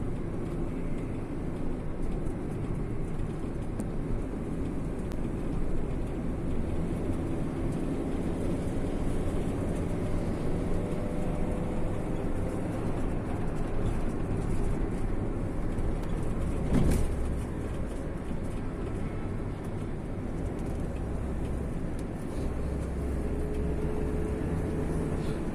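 Steady low rumble of a moving road vehicle, with one brief knock about seventeen seconds in.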